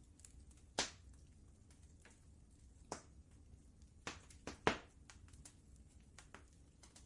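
Wood fire crackling in a fireplace: irregular sharp pops and snaps, a louder one about a second in, another near three seconds, and a quick cluster of three around four to five seconds, the last the loudest, with fainter crackles between over a faint low rumble.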